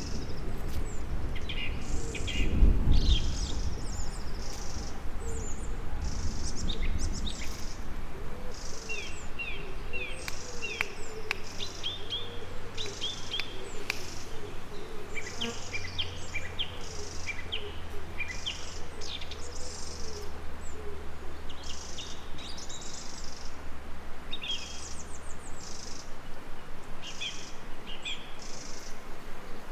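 Songbirds chirping and singing in quick repeated phrases, with a bee buzzing and wavering in pitch from about eight seconds in. A short low rumble about two to three seconds in is the loudest moment.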